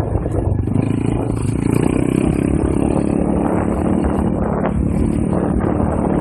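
Pit bike's small four-stroke single-cylinder engine running under way, with wind buffeting the microphone. The engine note grows steadier and stronger about a second and a half in.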